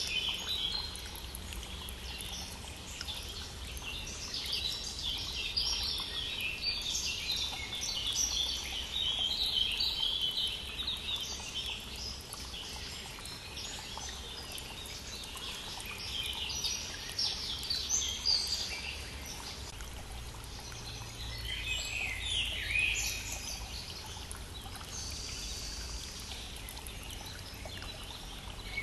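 Several songbirds singing in spring, with repeated chirps and trills that come and go in bursts, over the steady rush of a small stream.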